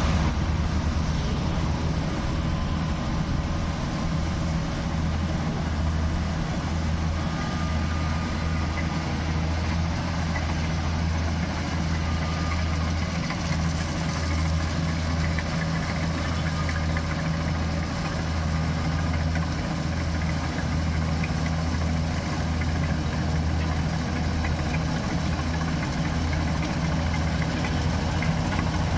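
Engine of a combine harvester running steadily while reaping, a continuous low hum with no change in speed.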